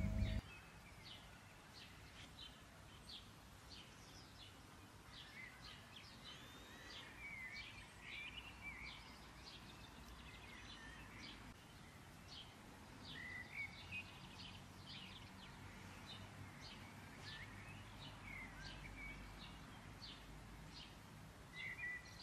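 Faint birds chirping and twittering, with many short high notes and now and then a warbling phrase, over a low steady hum.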